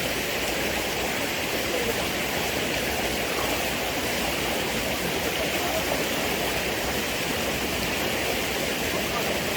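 Stream water rushing and splashing steadily over rocks.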